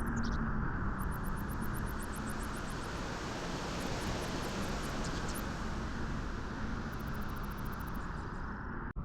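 Steady beach wind, a constant even rush with faint high, rapid chirping now and then. The sound drops out sharply for an instant near the end.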